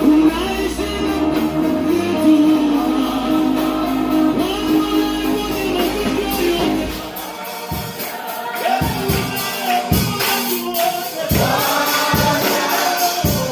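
Church praise-and-worship music: voices singing over band accompaniment. About halfway through, the deep bass drops away, leaving the singing over a steady percussive beat.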